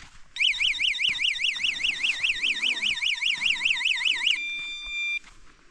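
Portable battery-powered camp alarm being tested: an electronic siren warbling fast, about five times a second, for around four seconds. It then switches to a steady high beep for under a second and cuts off suddenly.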